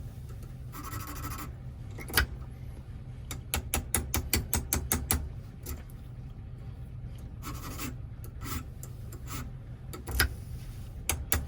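Small metal parts of a Toyota door lock cylinder clicking and scraping as they are worked by hand: two short rasps and runs of quick sharp clicks, over a steady low hum.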